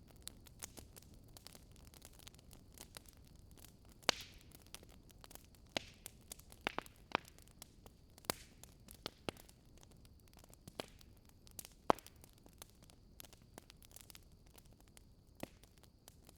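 Fireplace fire crackling: irregular sharp pops and snaps over a faint steady hiss, the loudest snaps about four seconds in and just before twelve seconds.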